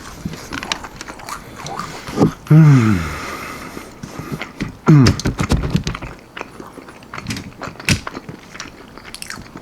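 Close-up chewing and biting into breaded chicken wings, with many small sharp clicks and crunches, and two short hums with falling pitch, about two and a half and five seconds in.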